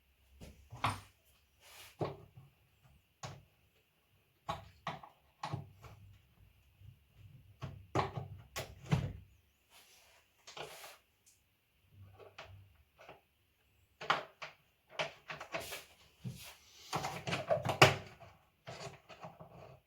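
Irregular knocks and clatter of metal and plastic parts and tools being handled while a washing machine's tub is reassembled, with a denser run of rattling near the end.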